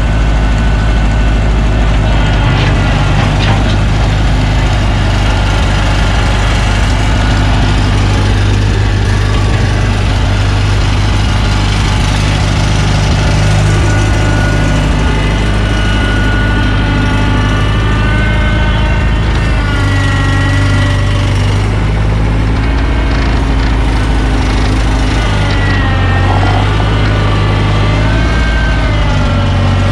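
Gasoline engine of a New Holland L775 skid steer running steadily under load, with a higher whine that rises and falls in pitch several times in the second half.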